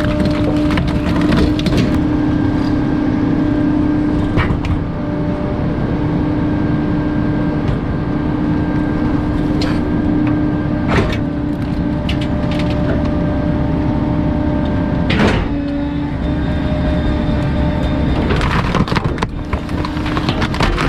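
Bulky-item garbage truck's hydraulic compactor crushing junk, a steady hum running under it, with several sharp cracks as items break.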